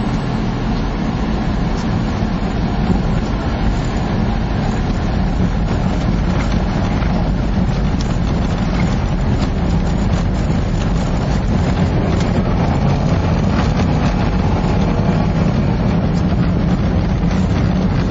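A vehicle driving through snow: a steady low engine and tyre rumble with scattered light ticks.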